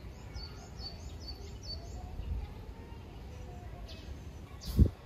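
A small bird gives a quick run of about six high chirps, about four a second, over a steady low outdoor rumble. Near the end a single sharp thump stands out as the loudest sound.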